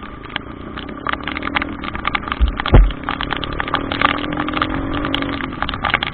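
A vehicle engine idling steadily under heavy rain, which crackles continuously on and around the microphone. A single heavy low thump comes just before three seconds in.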